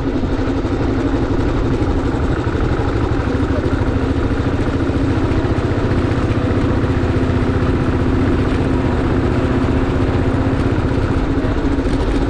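Motorcycle engine running steadily at a constant note, with no revving.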